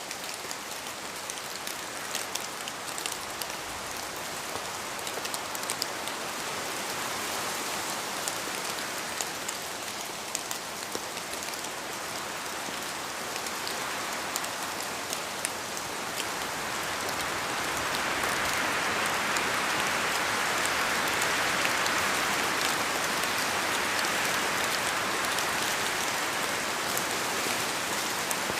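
Steady rain falling in a forest, with scattered single drops clicking as they fall from the trees. It swells noticeably louder a little past halfway.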